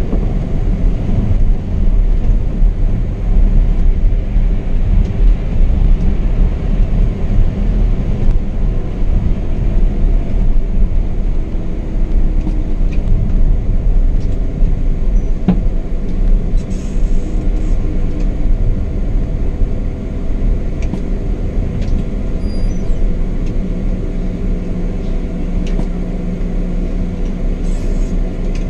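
Scania K420 double-decker coach driving on the road: a steady low rumble of the rear-mounted diesel engine and road noise, with a few faint ticks.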